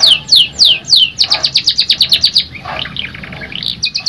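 Domestic canary singing: a run of loud down-slurred whistled notes, about three a second, then faster rolling trills and a quick series of short chirps toward the end.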